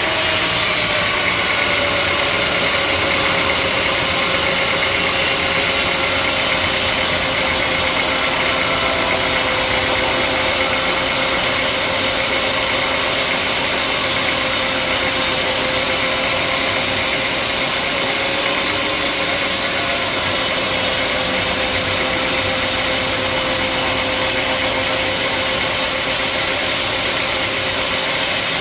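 Sawmill saw machinery running steadily and loudly, with a steady whine whose pitch sinks slightly over the first few seconds and then holds.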